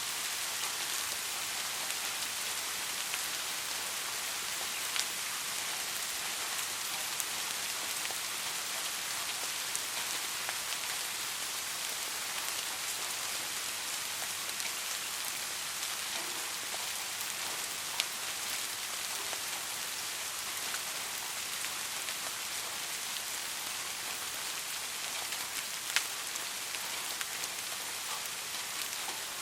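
Soft, steady rain: an even hiss of falling rain, with a few single louder drops ticking close by, the sharpest near the end.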